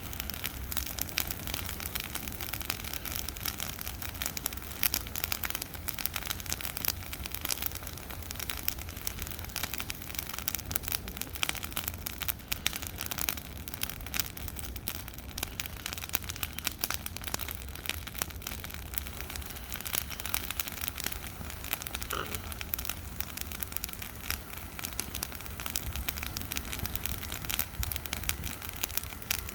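Bonfire of dry Christmas trees burning, crackling with a steady, dense stream of small pops.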